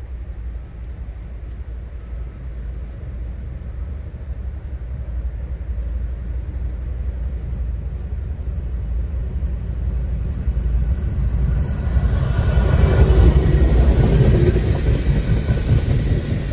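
Diesel-hauled freight train approaching, its low rumble building steadily until the locomotive passes close by about twelve seconds in with a loud roar. Autorack cars then roll past with wheel-on-rail noise.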